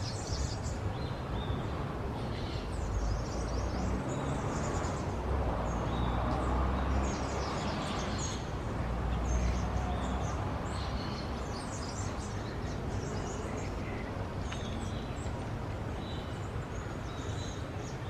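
Several birds chirping and calling in short, scattered notes, over a steady low background rumble.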